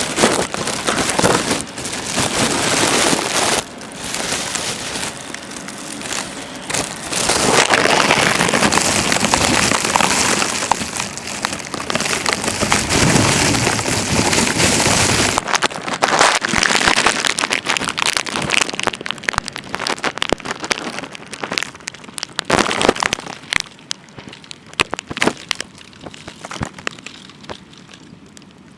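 Wind-driven snow and graupel pelting the microphone and everything around it: a dense hiss in surges through the first half, then thinning after about fifteen seconds to a patter of separate sharp ticks.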